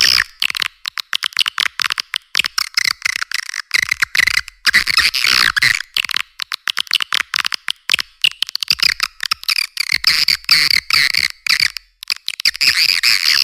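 Swiftlet call recording, the lure sound played in swiftlet houses to draw edible-nest swiftlets in to roost and nest: dense, rapid twittering chirps in quick runs broken by short gaps, with nothing low in the sound.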